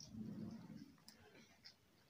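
Faint close-up chewing of sandwich and french fries, with scattered soft wet mouth clicks and a brief low hum in the first second.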